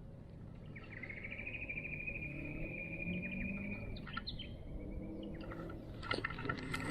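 A bird calling one long trilled note about three seconds long, slightly falling, followed by a few short chirps. Sharp clicks and knocks come in near the end.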